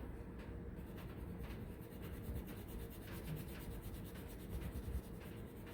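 Crayon rubbing on paper as a shape is coloured in, in quick, even back-and-forth strokes.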